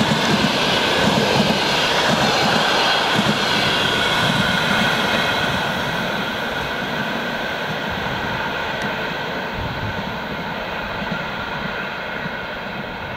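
Passenger train rolling past on the rails, a steady rushing rumble that grows fainter over the second half as the train moves away.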